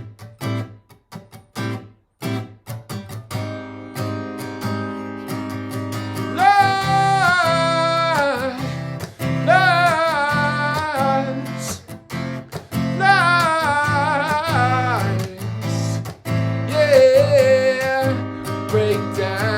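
Acoustic guitar (a Martin GPCPA4) played through a looper: a few separate choppy strums, then a steady layered strumming pattern from about three seconds in. Over it, from about six seconds in, a wordless sung melody with vibrato comes in short phrases.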